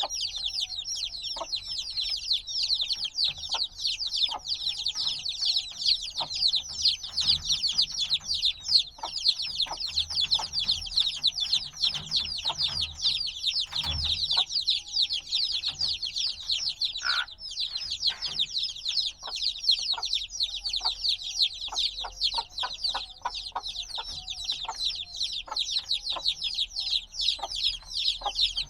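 A brood of newly hatched chicks peeping constantly, a dense overlapping chorus of short, high, downward-sliding chirps. Scattered short clicks sound underneath.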